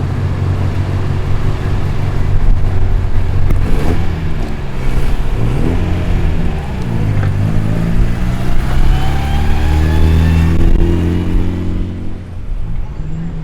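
Loud car engines rolling past, revs rising and falling several times, quieting down near the end.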